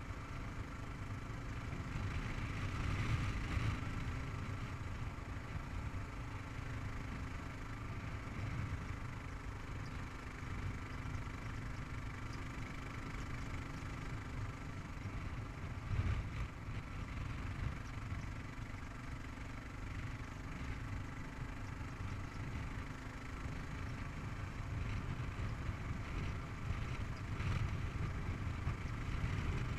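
Kawasaki KLR 650's single-cylinder four-stroke engine running steadily under way on a paved road, with a brief knock about halfway through.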